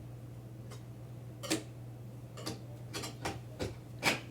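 A crate being worked open: scattered sharp clicks and knocks, the loudest about a second and a half in and near the end, over a steady low hum.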